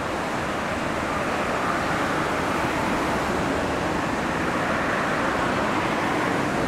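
Steady rumbling run of a JR West 227 series electric train inside a tunnel, carrying out of the tunnel mouth without fading.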